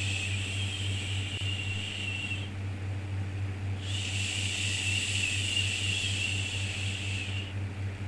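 Long soothing 'shhh' shushing sounds, each lasting about four seconds with a short pause between them, over a steady low hum. The first shush ends about two seconds in, and the next runs from about four seconds to near the end.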